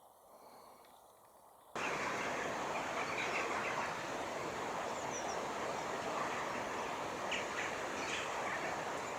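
Steady outdoor background noise that cuts in abruptly about two seconds in, with a few faint bird chirps.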